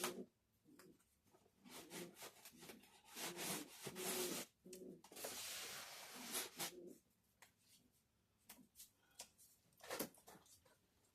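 Irregular rubbing and scraping on a hard surface in short bursts, some with a faint squeak, over the first seven seconds, then a few light clicks and knocks.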